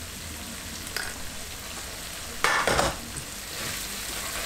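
Onion-tomato masala sizzling steadily in oil in a wok as ground spices are stirred in with a wooden spatula. There is a small click about a second in and a short, louder knock about two and a half seconds in.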